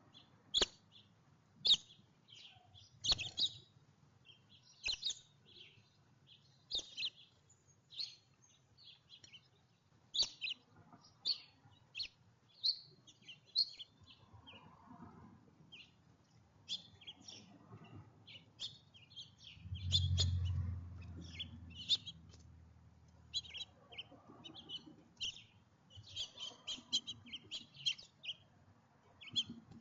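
Small songbirds chirping, many short high chirps in quick succession. About two-thirds of the way through there is a brief low rumble.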